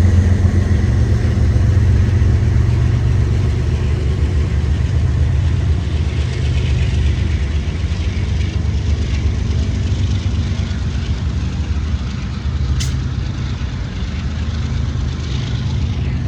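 Steady low engine drone of a motor vehicle, with one sharp click about 13 seconds in.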